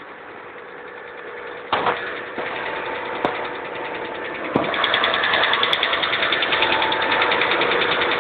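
2003 Hyundai XG350's 3.5-litre V6 engine running with a fast, even ticking or knocking. The ticking gets louder about four and a half seconds in. A couple of sharp clicks come in the first half. The noise is one the owner cannot account for.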